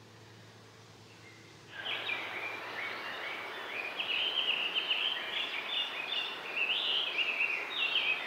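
Songbirds singing a continuous run of quick, high chirps and warbles over a steady outdoor hiss. It starts abruptly about two seconds in, after a faint low hum.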